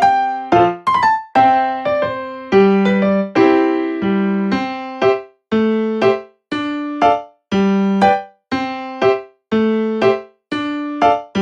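Background music played on an electric piano: short chords and notes struck about twice a second, each dying away quickly.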